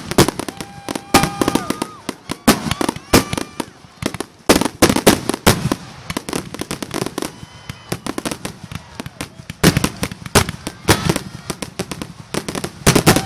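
Fireworks display going off in a dense, irregular run of sharp bangs and crackles, several a second, with no let-up.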